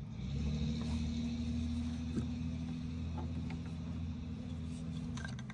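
A steady low mechanical hum that starts suddenly and cuts off near the end, with a few light clicks over it.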